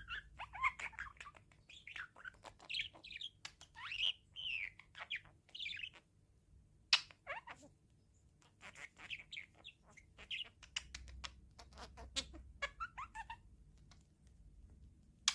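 Pet parrot chirping and chattering in short, irregular runs of calls, with sharp clicks in between and a brief pause about halfway through.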